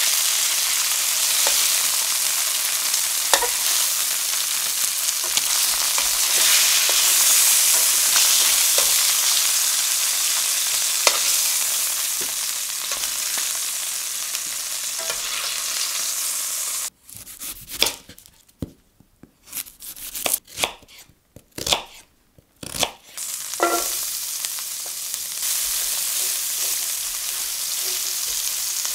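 Chicken thighs and drumsticks sizzling as they sear in hot oil in a stainless-steel pan, with a few sharp clicks of metal tongs against the pan. About two-thirds of the way in the sizzle stops abruptly for several seconds, leaving only scattered clicks and knocks, then resumes as chopped shallot fries and is stirred with a spatula.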